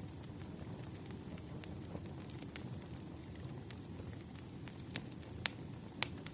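Wood fire burning, a low steady rumble with scattered sharp crackles and pops, a few louder pops near the end.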